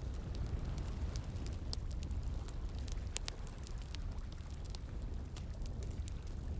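Campfire crackling, with many sharp, irregular pops and snaps over a steady low rush of flowing water.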